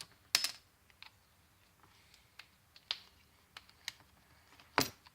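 Scattered small clicks and taps as the brass pieces are pulled from a hot glue gun's heater wire. Two clicks are louder, one about half a second in and one near the end.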